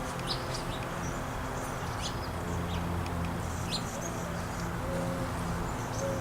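Small songbirds give short, high chirps every so often, over a steady low background hum.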